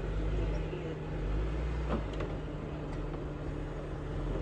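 Jeep engine running steadily at low revs, a low rumble, with a couple of faint clicks about two seconds in.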